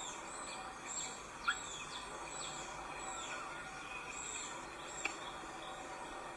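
Small birds giving short, thin, high chirps that drop quickly in pitch, repeated every half second or so over a steady background hiss, with one sharp tick about a second and a half in.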